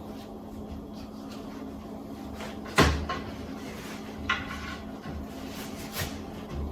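Plastic hat-washer sleeve being slid onto its plastic cage, rubbing faintly, with one sharp plastic clack about three seconds in and a couple of lighter clicks after it.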